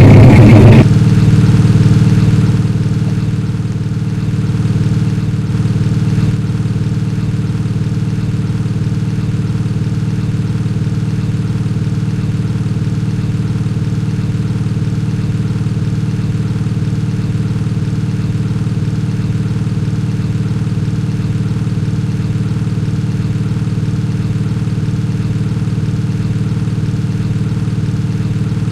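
An ice cream truck's music cuts off about a second in, leaving a steady engine hum of the truck idling.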